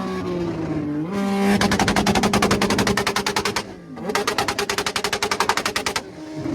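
Motorcycle engines revved hard in repeated bursts, the exhaust firing as a rapid, even staccato like machine-gun fire. The revs drop away briefly about a second in, near the middle and near the end, over a steady engine idle underneath.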